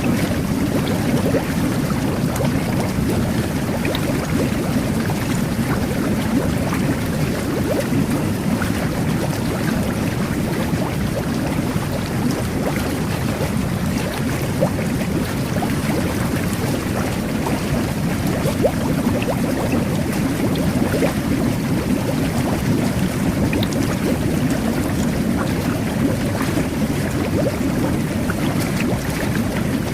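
Whirlpool jet bath churning the bathwater: a steady, even rush of jets and bubbles, with constant small crackles and pops of bursting bubbles.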